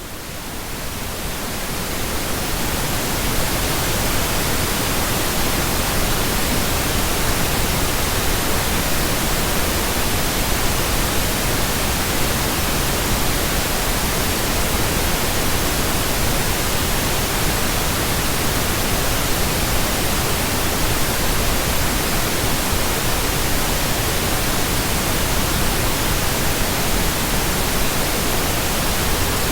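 Steady synthesized pink noise, an even hiss with no tones or rhythm in it, fading in over the first couple of seconds and then holding level.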